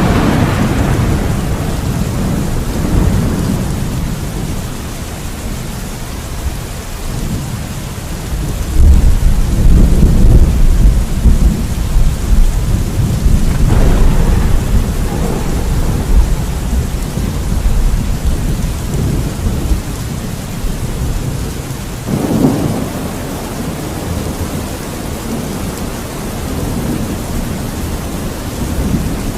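Thunderstorm: steady heavy rain hiss with rolling thunder, a crack right at the start, a long deep rumble about nine seconds in, and further claps at about fourteen and twenty-two seconds.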